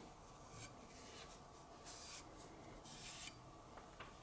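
A few faint rubbing strokes against a knife blade, about a second apart, each a short soft swish.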